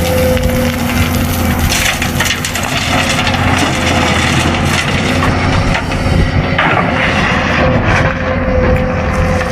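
A remote-control toy excavator's motors hum steadily while its bucket scrapes and crunches through debris on the road. There are louder spells of cracking and scraping about two seconds in and again around seven seconds.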